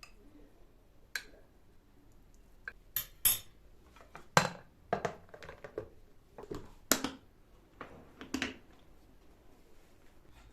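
Dishes and cutlery knocking and clinking in a kitchen: a string of separate clatters over several seconds, the loudest about four and seven seconds in.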